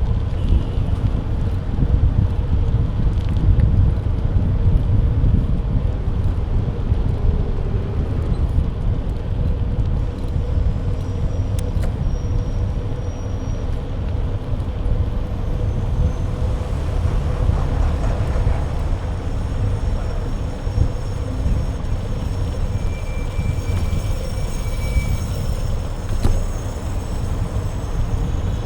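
Steady wind rumble on a bike-mounted action camera's microphone while riding, mixed with road and passing traffic noise.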